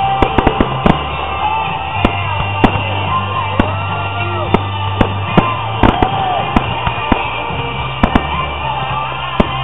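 Fireworks bursting in an irregular run of sharp bangs, with music playing under them.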